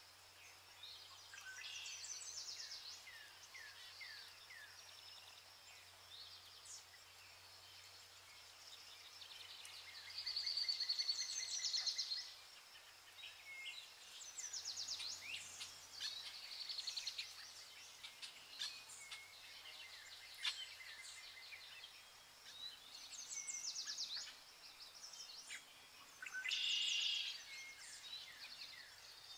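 Songbirds singing: a run of chirps, quick trills and short down-slurred notes, with louder bursts of song about ten seconds in and near the end.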